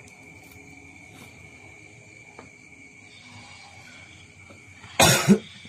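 A steady high insect drone throughout, with a person coughing loudly about five seconds in.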